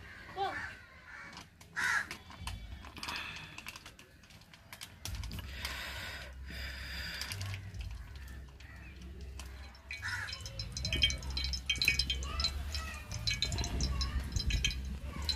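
Squid vada frying in oil on an iron pan over a wood fire: a crackling sizzle that thickens in the last few seconds, over a low rumble.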